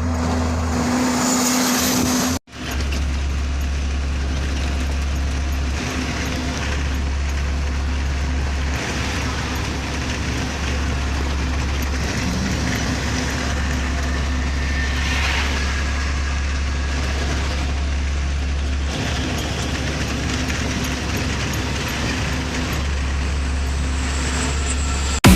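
Truck on the move: a steady low drone of the diesel engine with road noise, broken once by a momentary dropout about two and a half seconds in.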